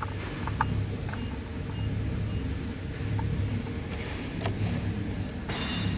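Daihatsu KF-VE 660 cc three-cylinder petrol engine idling steadily with an even low rumble, during a run test of a used engine.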